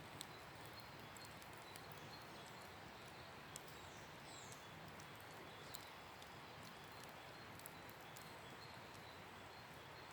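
Wood campfire crackling faintly: a low steady hiss with a few sharp pops a couple of seconds apart.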